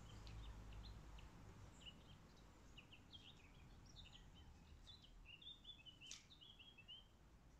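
Faint chirping of a small bird: scattered short high notes, then a quick run of repeated notes about five and a half seconds in. A single soft click about six seconds in.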